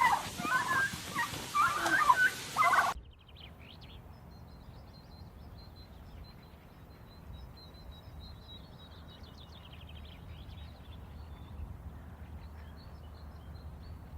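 Turkeys gobbling, loud repeated calls, cut off abruptly about three seconds in. Then a much quieter stretch with faint, rapid high chirping and a low hum.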